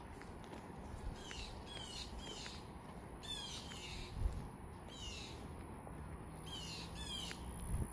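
Birds calling over and over in short calls that sweep down in pitch, several to a second at times. There is one soft low thump about four seconds in.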